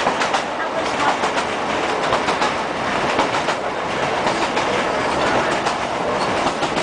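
ScotRail Class 156 diesel multiple unit running along the track, heard from inside the carriage: a steady running noise with the wheels clicking quickly over the rail joints.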